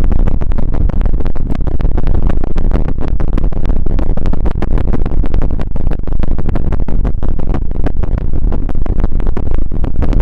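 Close-up ASMR rustling: something rubbed right against the microphone, giving a loud, dense stream of crackles and scratchy rubbing.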